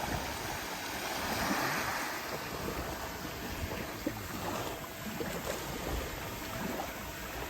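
Steady rush of ocean surf with wind gusting on the microphone.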